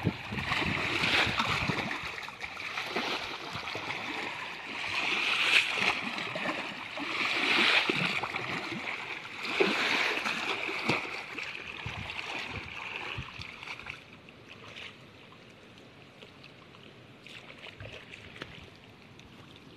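Water sloshing and splashing in swells that rise and fall every couple of seconds, dropping to a quieter background after about fourteen seconds.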